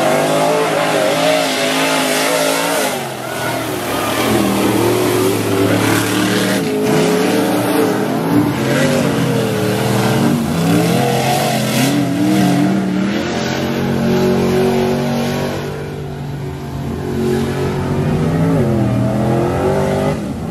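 Mud-racing truck engine revving hard, its pitch climbing and falling again and again as the throttle is worked.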